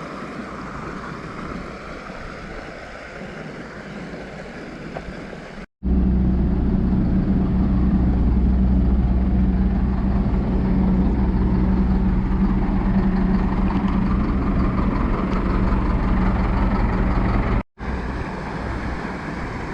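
A motor vehicle's engine running steadily with a loud, low drone for most of the clip, cut in abruptly between two stretches of steady outdoor hiss.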